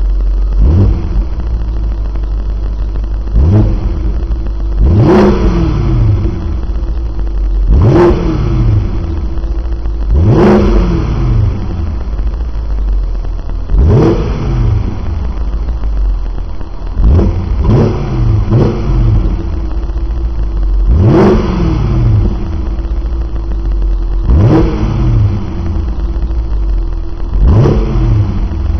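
BMW 745 (E65) V8 idling through an aftermarket exhaust with twin 90 mm tailpipes, blipped about a dozen times. Each rev rises sharply and falls straight back to idle, a few of them in quick pairs or triples.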